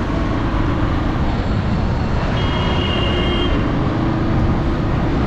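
Steady road noise of riding on a motorbike through city traffic: engine and a dense low rumble of wind on the microphone, with a brief high tone about halfway through.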